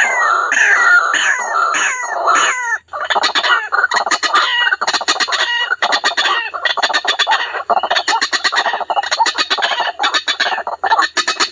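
White-breasted waterhen (ruak-ruak) calls from a recorded lure call. First comes a run of repeated falling notes, then, after a short break about three seconds in, a fast, dense series of repeated calls.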